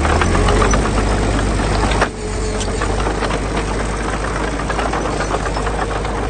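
Heavy earthmoving machine's diesel engine running steadily, with a dense metallic clatter over the low rumble and a brief drop in level about two seconds in.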